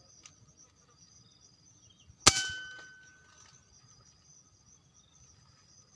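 A single sharp metallic clang about two seconds in, with a ringing tone that dies away over about a second, over faint steady insect trilling.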